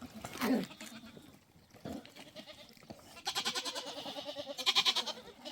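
Goats bleating: a short call about half a second in, then a long, quavering bleat through the second half.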